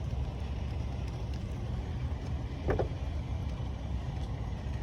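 Steady low rumble of a car, with one short pitched sound, voice-like, a little past the middle.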